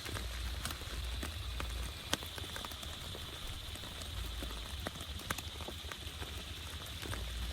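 Steady rain falling, with many separate drops striking close by as sharp ticks, over a low rumble.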